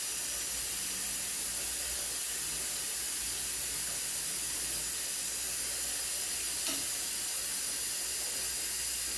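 A steady, thin hiss that does not change, with one faint tick near the end.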